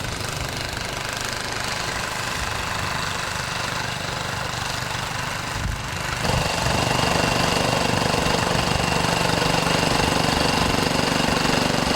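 A heavy engine running steadily over the hiss of wind, getting louder and fuller about six seconds in as it comes closer or works harder.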